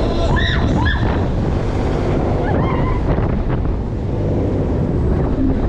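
Loud, steady wind rush buffeting the microphone of a rider on a fast-moving fairground thrill ride, with a few brief high-pitched cries near the start and again around three seconds in.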